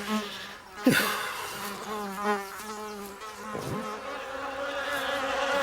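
Cartoon sound effect of a fly buzzing, its pitch wavering as it flits about, with two quick swooping dives about a second in and near the end.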